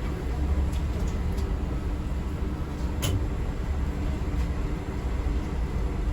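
Steady low rumble of a moving city public-transport vehicle heard from inside the passenger cabin, with a few faint clicks and one sharp click about three seconds in.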